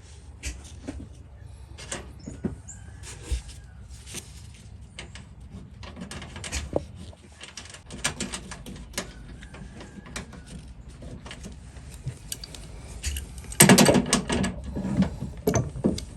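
Scattered small metallic clicks and knocks of a wrench and copper refrigerant line set being handled while flare nuts are tightened on a mini-split, with a louder burst of clattering near the end.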